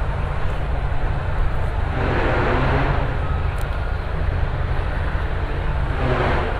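Steady low rumble of vehicle and street noise, with faint distant voices about two seconds in.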